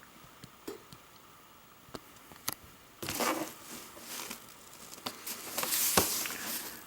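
Packaging being handled and opened: a few scattered taps and clicks, then two bouts of crinkling and tearing, the second, near the end, the louder.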